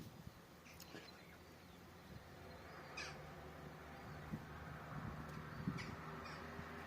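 Faint, occasional short calls from seagulls fighting, over a low steady hum.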